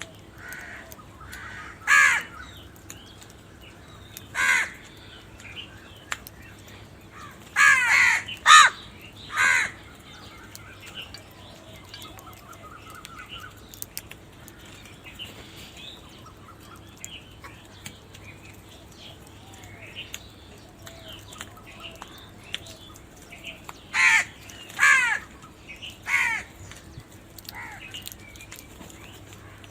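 Crows cawing: harsh caws come in two bursts, about five in the first ten seconds and three more close together near the end, with fainter bird calls between them.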